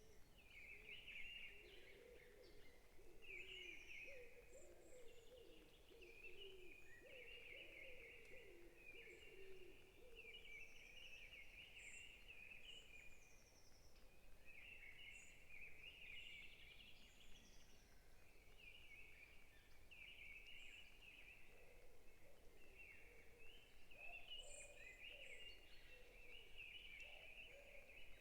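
Faint chorus of forest birds chirping, many short calls overlapping throughout, with a lower warbling call in the first third and again near the end.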